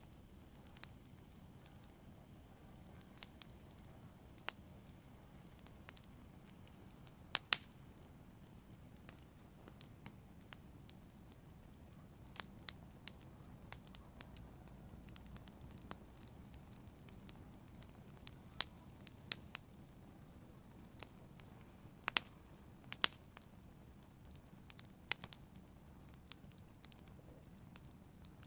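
Wood fire in a fireplace crackling: a low steady hiss with irregular sharp pops scattered throughout, a few louder ones about a quarter of the way in and again about three-quarters through.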